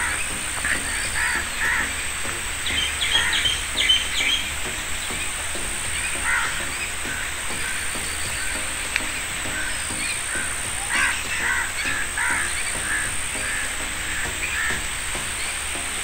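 Birds calling in woodland: many short calls, scattered and repeated throughout, over a steady background hiss.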